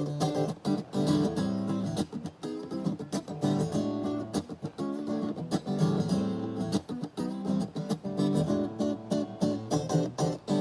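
Acoustic guitar strummed in steady, even strokes over chords, an instrumental passage between sung lines of a song.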